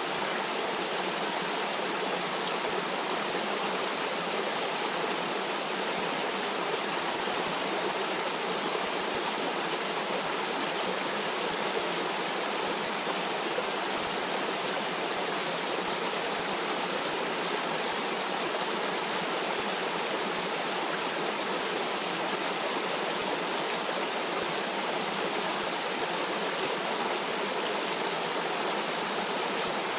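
Stream water flowing steadily, an even rushing noise with no changes.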